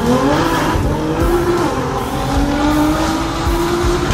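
Tuned Nissan GT-R's twin-turbo V6, with upgraded turbos, accelerating hard, heard from inside the cabin. The revs climb, fall back with an upshift near the start and again about a second and a half in, then climb again.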